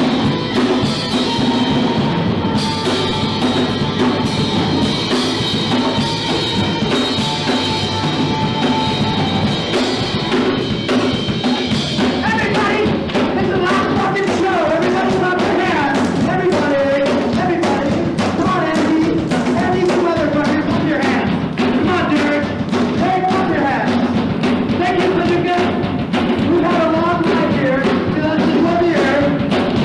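Live punk rock band playing loud: drum kit, bass and guitar, with vocals coming in about twelve seconds in.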